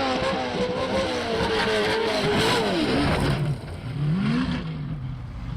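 Race truck engine revving hard with a wavering pitch, then dropping away as the throttle comes off, with a surge of noise about two and a half seconds in. After that come a couple of short throttle blips that rise and fall.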